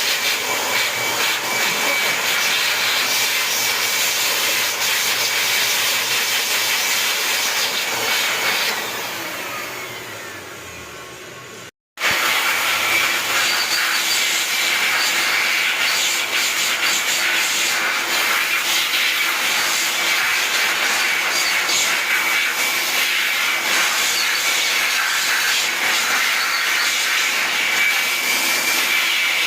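A running machine gives a steady high-pitched whine over a loud rushing hiss. It dies away from about nine seconds in, drops out briefly near twelve seconds, and then runs again at full level.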